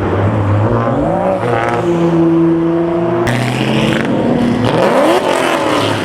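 Car engines revving and accelerating away, the engine pitch climbing and falling several times, with a fresh climb about five seconds in.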